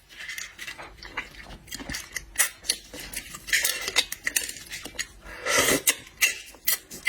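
Close-up eating sounds of braised shrimp being chewed, with many short clicks and crackles and two louder crunching bursts, about three and a half and five and a half seconds in.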